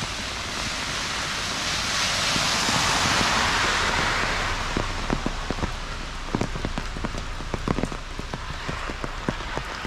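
Rain falling steadily, with sharp taps of individual drops landing close by. A broader hiss swells and fades about two to four seconds in.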